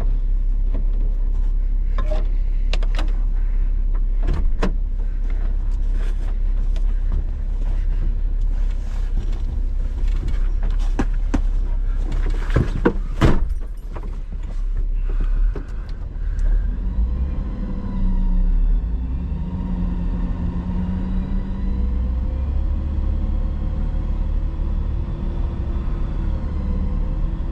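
A vehicle engine running under a constant low rumble, with a string of sharp knocks and clunks over the first half. From about the middle on, a pitched engine note comes in and wavers up and down in pitch.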